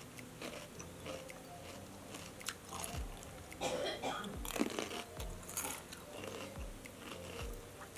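Close-up crunching and chewing of crispy fried chicken (ayam geprek), with crackly bites and, from about three seconds in, a steady chewing rhythm of roughly one jaw stroke every three-quarters of a second.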